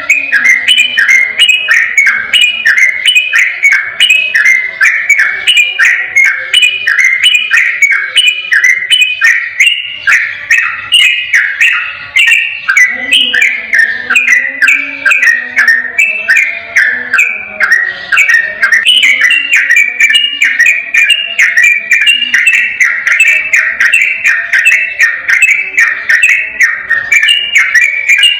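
Yellow-vented bulbul (trucukan) singing a long 'ropel' song: a rapid, unbroken stream of chirping whistled notes with no pauses.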